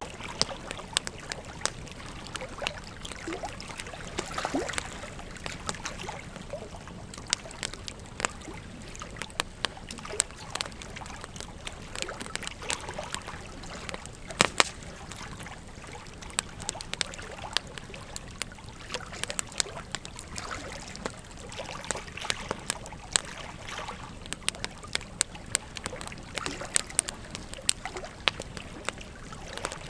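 Wood campfire crackling: a steady hiss with irregular sharp pops and snaps, one louder pop about halfway through.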